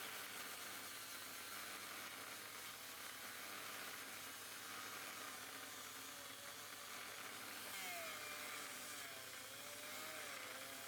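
Small power tool whirring steadily with a hiss, its whine wavering and gliding in pitch as the load changes, mostly in the second half.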